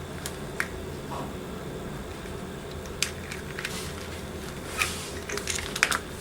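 Small sharp clicks and ticks of metal parts being handled while a link remover tool works on a metal watch band, sparse at first and bunched together near the end, over a steady low hum.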